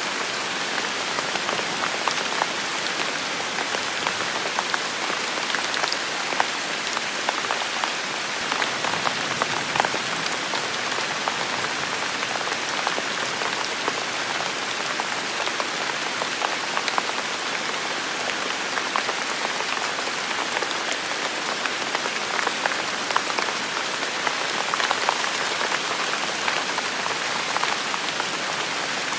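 Steady heavy rain falling on a forest, a dense even hiss scattered with close individual drop hits.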